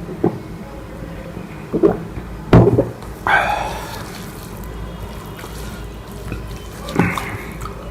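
Close-miked eating sounds of curry and rice: a few short knocks and wet squelches, the loudest about two and a half seconds in, with a brief noisy rush just after it and another knock near the end.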